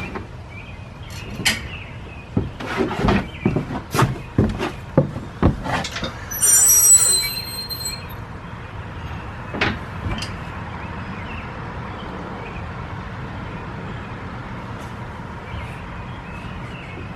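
A quick series of knocks and clanks, as of metal tools or parts being handled, with a brief high metallic ring about six and a half seconds in. One more knock follows near ten seconds, over a steady low hum.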